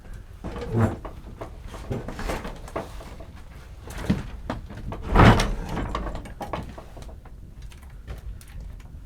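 Irregular knocks and scrapes of objects being handled, the loudest knock about five seconds in.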